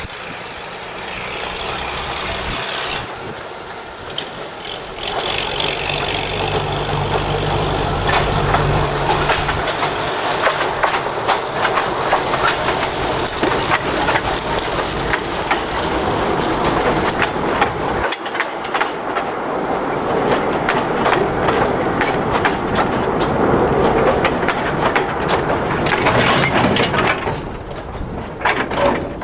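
A narrow-gauge industrial train passing, its wagons clattering over the rails in a dense, continuous run of clicks and rattles. A low engine hum runs under it for a few seconds about five seconds in.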